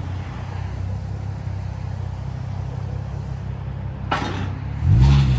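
Infiniti G35 coupe's 3.5-litre V6 idling as the car creeps forward, running on its old exhaust. There is a short blip of the throttle about five seconds in.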